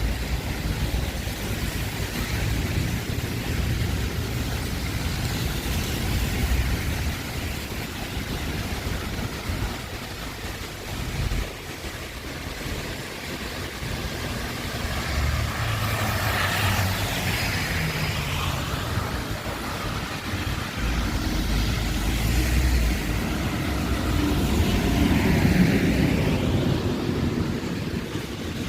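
Wind buffeting the microphone in uneven gusts over the hiss of street traffic on wet road. Vehicles swell past about halfway through and again near the end.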